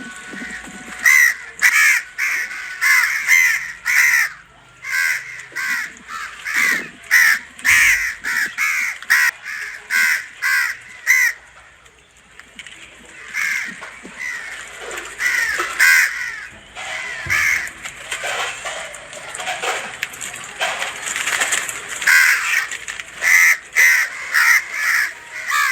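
Birds calling over and over in short repeated calls, about two a second, with a brief lull about halfway through.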